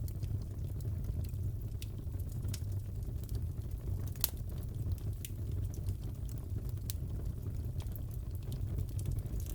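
Wood fire crackling in a fireplace: scattered sharp pops and snaps over a steady low rumble, with one louder pop about four seconds in.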